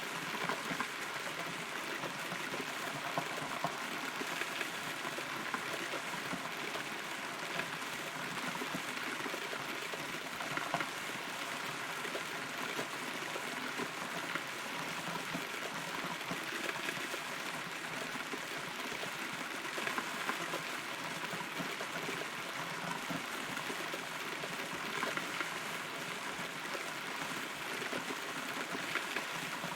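Rain falling steadily, a continuous patter of many small drops, heard from inside a hollow rotten tree.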